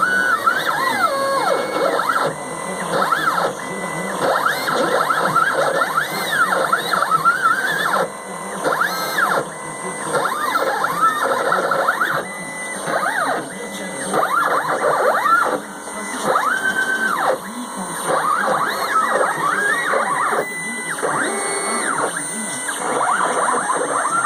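Stepper motors of a home-built CNC machine whining as its three axes move together on a first test run, the pitch rising, holding and falling again with each move, often several whines overlapping.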